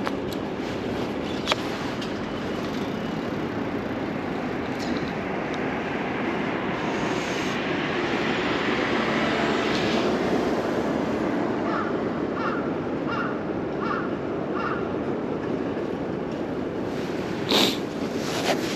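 Steady rush of wind and riding noise while cycling, swelling in the middle. About two-thirds of the way through a crow caws five times in an even series, and a sharp knock comes near the end.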